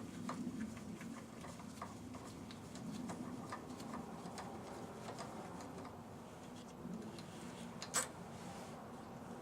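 Faint, irregular small clicks and ticks of a hand tool and small metal parts as the screws holding an HEI distributor's pickup coil are undone. One sharper click comes about eight seconds in.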